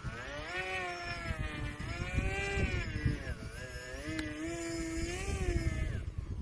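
Electric motor and propeller of a HobbyZone Aero Scout RC plane whining, its pitch rising and falling several times as the throttle is worked up and down. Wind buffets the microphone underneath.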